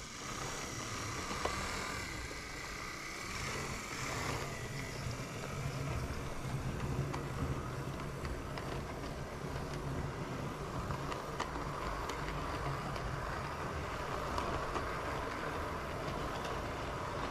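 Model railway train running along the track, double-headed by a model 56XX and a model N2 steam locomotive: a steady electric-motor hum with a few light clicks of wheels over the rail. The hum grows a little stronger about three seconds in.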